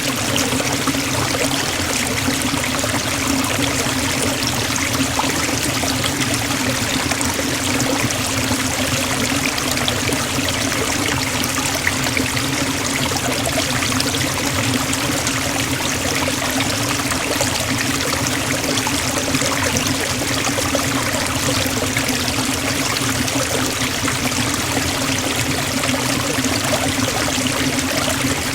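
Forest waterfall: a steady rush of falling and splashing water that does not change.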